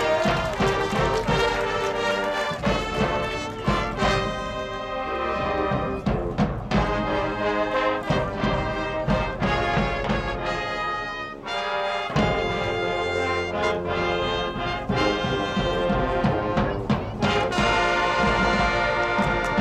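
High school marching band playing its field show: brass (trumpets and trombones) with drums and timpani.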